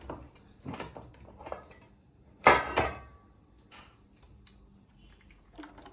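Metal cookware knocking together as cooked macaroni is tipped into a baking tray: a few light knocks and one loud clang about two and a half seconds in that rings briefly.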